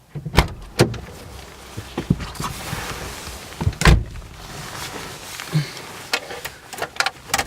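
A series of irregular knocks and clicks over low rustling, loudest about four seconds in, with a quick cluster of clicks near the end.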